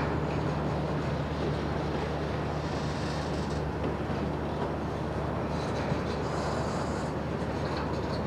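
CSX single-stack intermodal freight train rolling past: a steady rumble of railcars with a low, even drone underneath.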